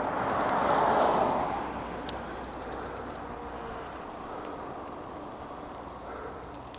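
A car passing by: its tyre and road noise swells to a peak about a second in and then fades away.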